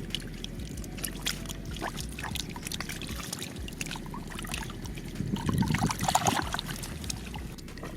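Shallow muddy water splashing and sloshing in irregular small strokes as hands grope through it, with a louder flurry of splashing about five seconds in that lasts a second or so.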